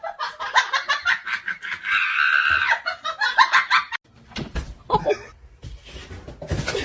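A person laughing hard in quick bursts for the first few seconds, then a few scattered knocks.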